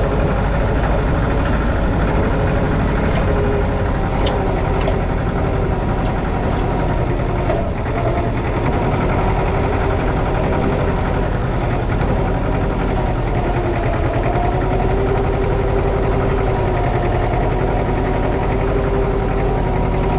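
Allis-Chalmers 5020 compact tractor's engine running steadily at a constant speed, with a steady tone over the engine noise.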